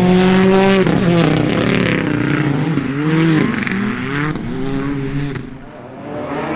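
Rally car engine revving hard on a stage run. It holds a high note, drops sharply a little under a second in at a gear change, then climbs and falls several times through shifts and lifts, easing off briefly near the end.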